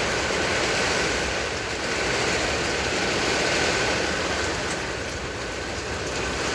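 Heavy thunderstorm rain pouring down, a dense steady rushing noise of downpour and wind.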